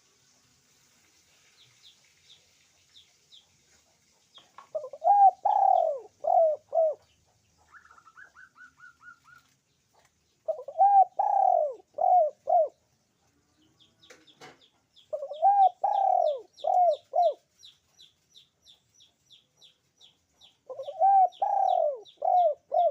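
Puter pelung (Barbary dove) cooing in four phrases about five and a half seconds apart, each a long rising-and-falling coo followed by two or three shorter notes. A small bird chirps in fast, faint runs between the phrases, with a short lower twitter about eight seconds in.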